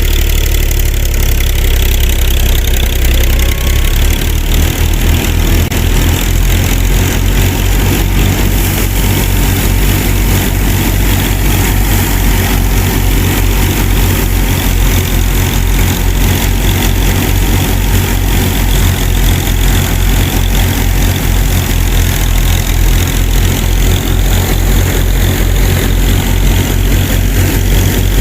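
Engine running steadily with an even, rapid chugging pulse.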